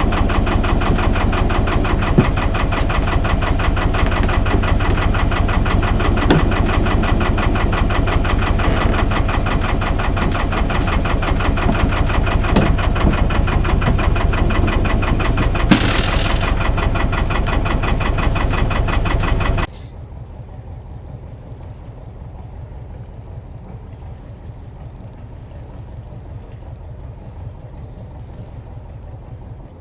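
Albin 2D marine engine in an old wooden boat running with a steady pulsing beat, with a few sharp clicks over it. About two-thirds of the way in the sound drops suddenly to a much quieter level, with the engine beat still faint underneath.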